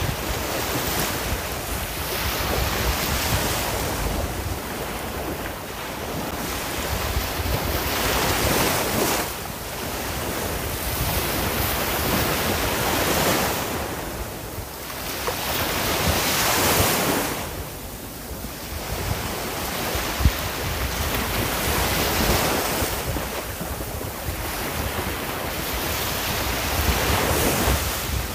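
Sea waves breaking and washing ashore, the surf swelling and falling back every four to five seconds, over a low rumble of wind on the microphone. A brief thump sounds about twenty seconds in.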